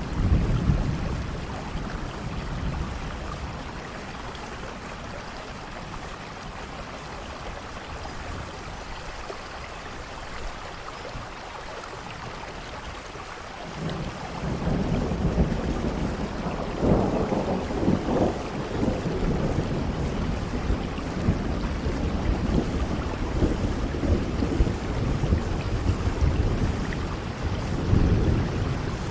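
Steady rain falling through a thunderstorm, with thunder rumbling. A deep roll of thunder at the start fades away, then a long, heavier rumble builds about halfway through and swells again near the end.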